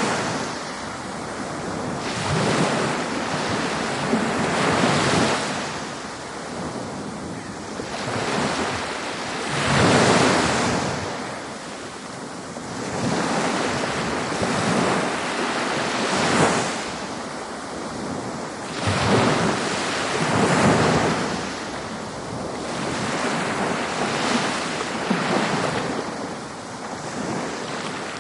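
Ocean waves breaking on a beach, the surf swelling and washing back in repeated surges every few seconds.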